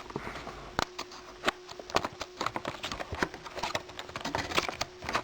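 Earphone packaging being opened by hand: irregular clicks, taps and rustling as the box and its contents are handled.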